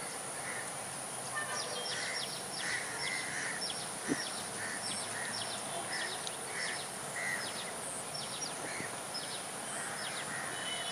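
Wetland birds calling: short, sharp, high notes repeated about twice a second, with lower chirps between them. Under them runs a steady high-pitched hiss, and there is one brief knock about four seconds in.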